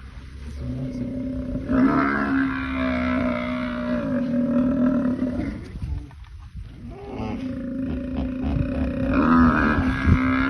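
Large wild animal calling in long, drawn-out bellowing roars, one from about two seconds in, then a brief lull, then another building louder near the end.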